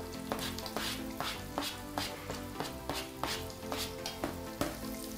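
Grated garlic frying in hot oil and butter in a stainless steel pan: a steady sizzle with many quick crackles and pops.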